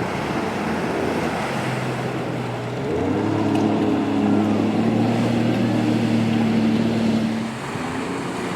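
Sea-Doo jet ski engine running under way, over the rush of water and wind. About three seconds in it speeds up and gets louder, then eases back near the end.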